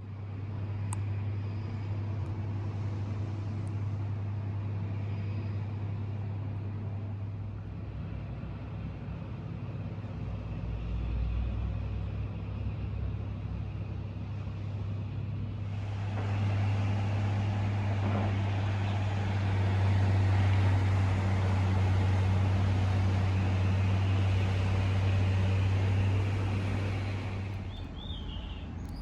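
Steady low hum and road noise of a moving vehicle, getting louder and brighter about halfway through and easing off near the end.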